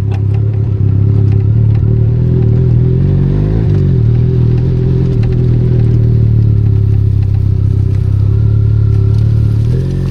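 Benelli Leoncino 500 Trail's parallel-twin engine running steadily under way, its note dipping briefly and picking back up about three and a half seconds in.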